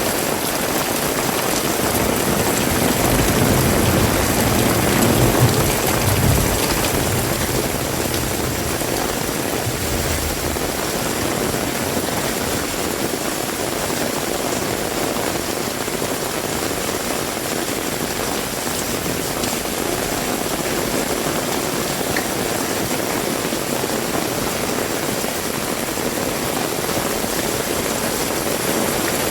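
Heavy rain falling steadily. A low rumble swells a few seconds in and fades by about ten seconds.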